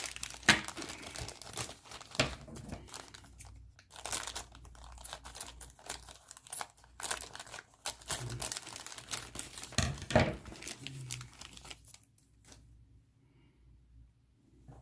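Plastic packaging bags crinkling and rustling in irregular bursts as they are handled and opened, stopping about twelve seconds in.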